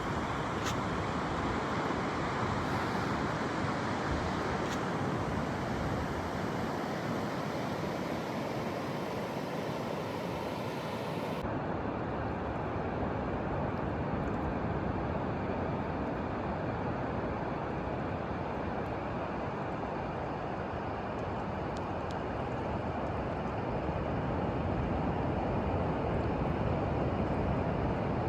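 Ocean surf washing onto a beach: a steady rushing noise whose upper hiss drops away abruptly about eleven seconds in.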